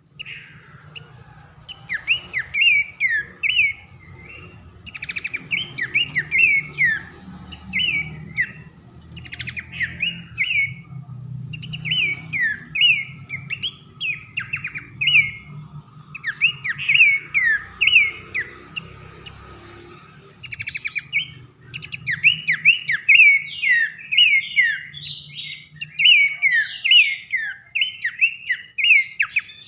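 Horsfield's babbler (pelanduk semak) singing loud whistles: quick phrases of sharp, down-slurred notes, repeated over and over with short breaks.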